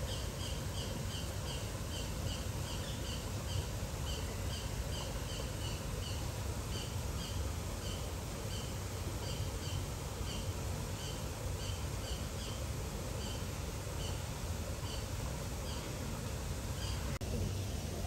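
A bird repeating a short, high call about two to three times a second, stopping shortly before the end, over a steady rushing background noise.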